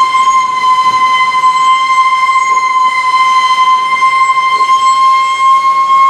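Freight car wheels squealing steel on steel as the cars roll through the yard: one steady, high-pitched squeal with ringing overtones. The squeal is put down to one TTX car in the cut.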